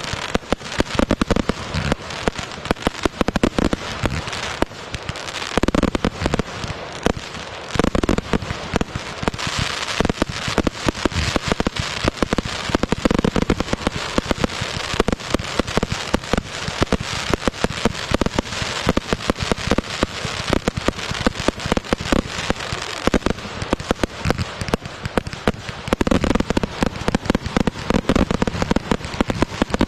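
Fireworks going off continuously: a dense, rapid crackling and popping, with deeper booms every few seconds.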